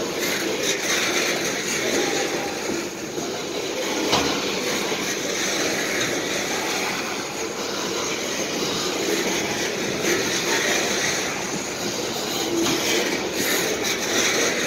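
Open-top coal hopper cars of a freight train rolling past, a steady rumble and clatter of steel wheels on the rails, with a sharp click about four seconds in.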